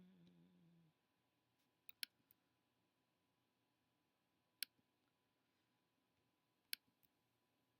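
Computer mouse clicking: about six sharp single clicks a second or two apart, some in quick pairs, against near silence. A brief hummed voice sound fades out about a second in.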